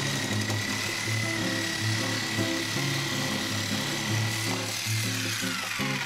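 Reciprocating saw with a metal-cutting blade cutting through a padlock, its motor whine steady and then falling in pitch near the end as the saw winds down. Background music plays underneath.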